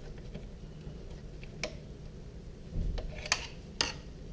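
Hand tool clicking and tapping against metal on the switch's spade-connector tabs: a few separate sharp metallic clicks, with a dull low knock about three seconds in.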